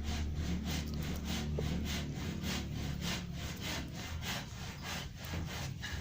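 Kitten chewing a dead rat: rhythmic crunching and rasping bites, about two to three a second, over a low steady hum.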